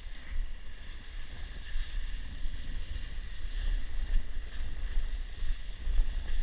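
Wind buffeting the microphone: a low rumble that gusts up and down, over a faint steady hiss.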